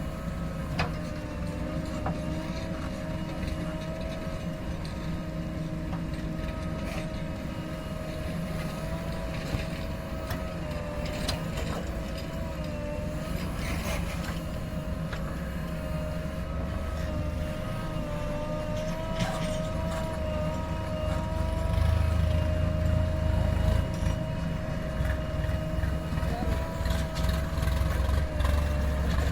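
JCB 3DX backhoe loader's diesel engine running steadily under a constant whine. The low rumble grows louder about 22 seconds in as the engine takes more load.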